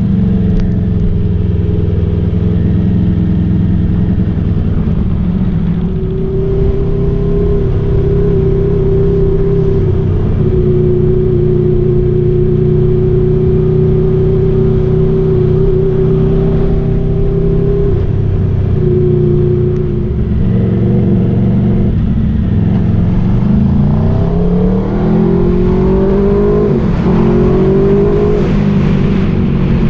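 Aprilia RSV4's V4 engine through an SC Project aftermarket exhaust, running at a steady pitch while cruising for most of the stretch. About three-quarters of the way through it accelerates, the pitch rising in several successive sweeps.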